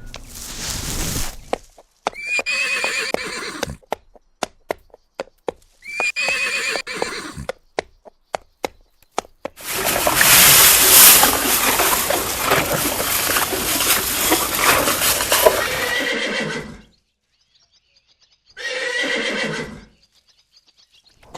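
Horses whinnying: three short wavering neighs, separated by trains of clip-clopping hoofbeats. In the middle comes a loud six-second stretch of dense hoof noise.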